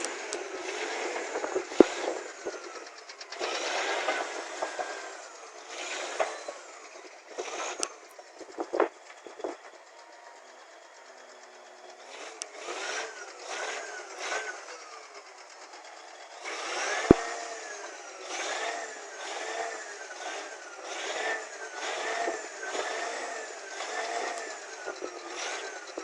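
Caterpillar D8N bulldozer working, a steady mechanical clatter with a sharp knock about 2 seconds in and another about two-thirds of the way through. In the second half a squeal rises and falls about once a second.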